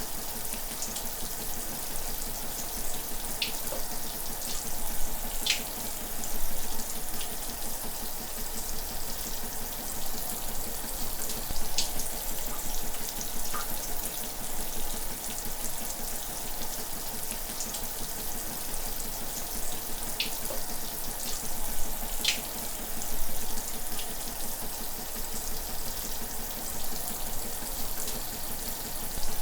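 Shower running steadily, water spraying and splashing, with an occasional sharp tick or splat of a drop standing out now and then.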